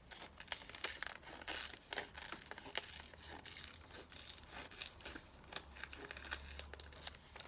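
Paper rustling and crinkling, with many small irregular clicks and rustles, as a cut-out magazine picture is handled.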